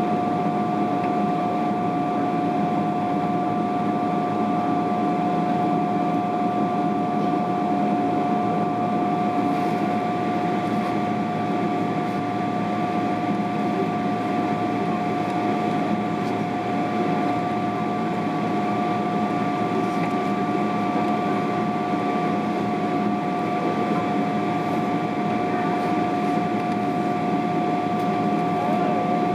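Steady cabin noise inside a Boeing 777-300ER airliner: the constant drone of its GE90 jet engines and airflow, with two steady whining tones over it.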